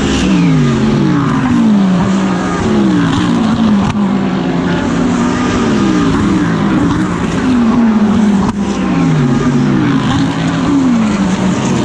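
GT3 race car engine running hard at racing speed, its note sweeping down in steps and climbing back, over and over every couple of seconds through the gears.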